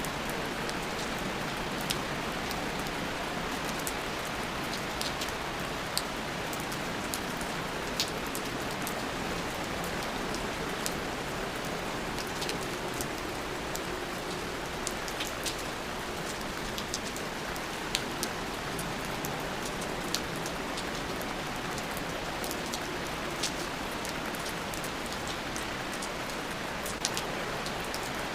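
Steady rain ambience: a constant hiss of rainfall with scattered individual drops ticking on a surface.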